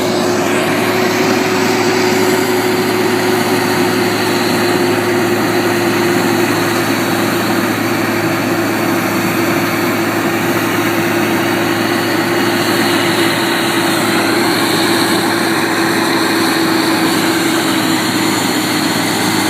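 Heavy road-work machinery running steadily and loudly, a constant engine drone under a dense grinding noise.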